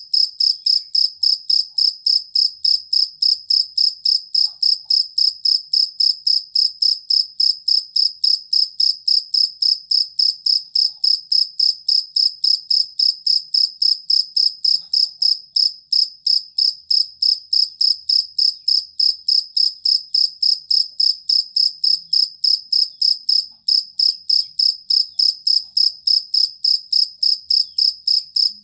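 Cricket chirping: a steady train of short, high, pure-toned chirps, about three a second, with one brief skip in the rhythm about two-thirds of the way through.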